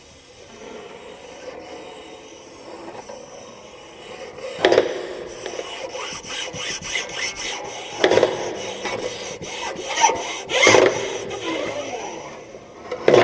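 Rough scraping and rubbing that grows louder over the first few seconds, broken by four loud knocks spaced about three seconds apart.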